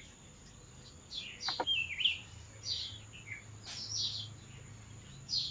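Small birds chirping: a scattered series of short, high chirps and quick up-and-down calls over a few seconds.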